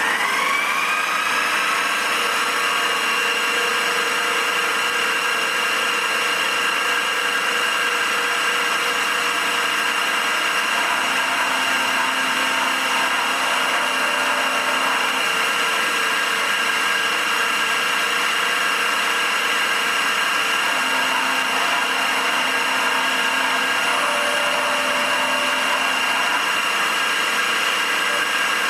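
Milling machine spinning up, its whine rising over about the first two seconds, then running steadily with a high whine.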